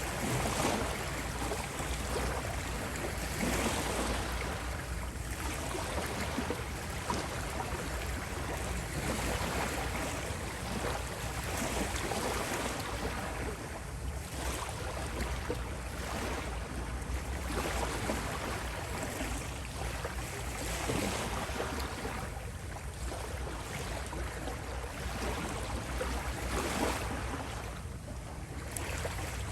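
Ocean surf on a beach: waves break and wash in, swelling and easing every few seconds over a steady low rumble.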